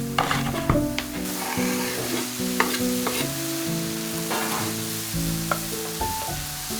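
Food frying in a pan: a steady sizzle that grows about a second in, with the clicks and scrapes of a utensil stirring it. Soft background music with held notes plays underneath.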